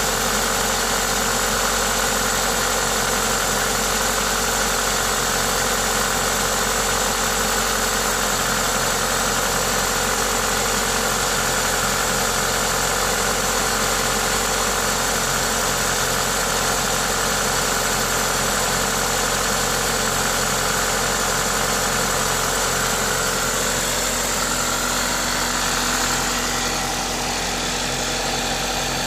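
Toyota 2ZZ-GE 1.8-litre four-cylinder engine idling steadily, with a hiss from its aftermarket induction kit over the engine note. It is presented as the engine's normal running noise. It goes slightly quieter near the end.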